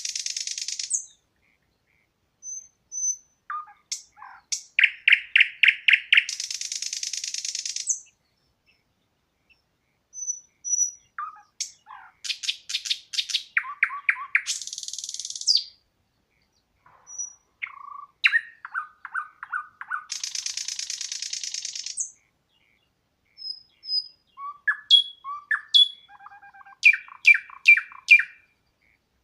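Songbirds singing: one song, a quick run of notes ending in a long buzzy trill, repeats about four times, every six to eight seconds, with short whistles and chirps between phrases.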